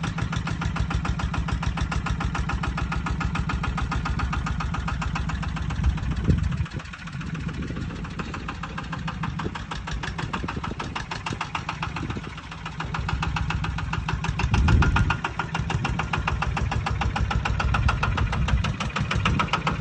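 18-horsepower Kubota single-cylinder diesel engine of a six-wheel farm truck running with fast, even firing pulses. It drops quieter for several seconds about midway, then picks up again with a brief surge.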